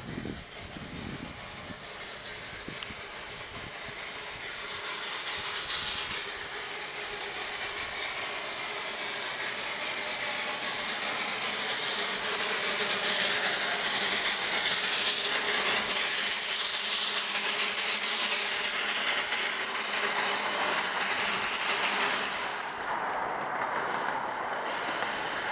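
Crown quarter-scale park train passing close by, its running noise building steadily over several seconds, loudest through the second half, then dropping off fairly sharply near the end.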